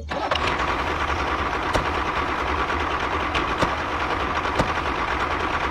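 Small motor of a miniature Mahindra model tractor running steadily, with a faint steady whine and a few light clicks.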